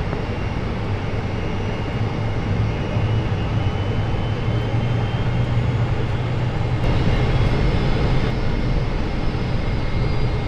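Steady cabin noise of a Boeing 747-400 with its engines at idle while lining up for takeoff: an even rumble with a strong low hum and a faint high engine whine.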